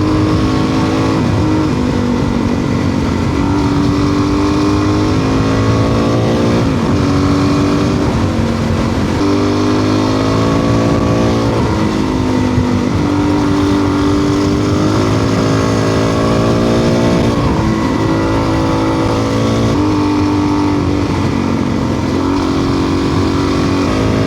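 Adventure motorcycle's engine on the move, pulling through the gears: its pitch climbs and then drops back at each shift, several times over. A steady rushing noise runs underneath.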